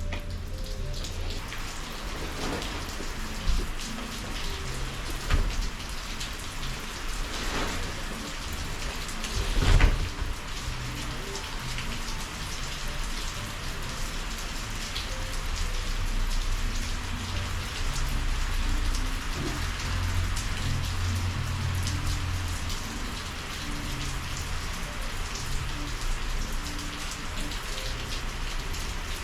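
Steady rain falling, with a few louder drops or knocks standing out, the loudest about ten seconds in, over a low rumble.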